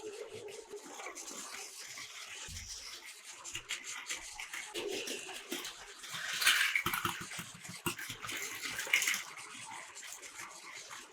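Small battery motors of Plarail toy trains whirring as they run on plastic track, with a rattle of clicks and clacks from the wheels over the track joints.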